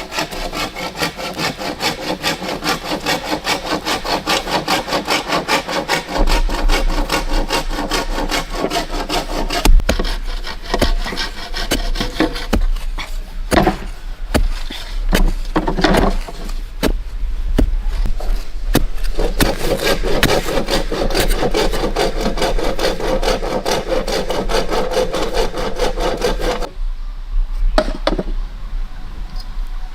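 Hand saw cutting through wood in quick, even back-and-forth strokes. The strokes grow less regular after about ten seconds and stop briefly near the end.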